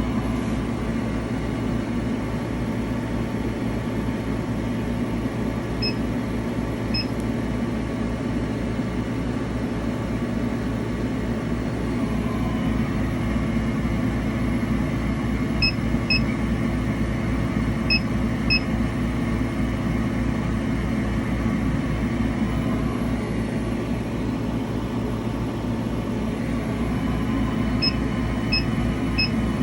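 An engraver's machinery running steadily: a low hum with a fast, fine rattle. Short high beeps come several times, mostly in pairs.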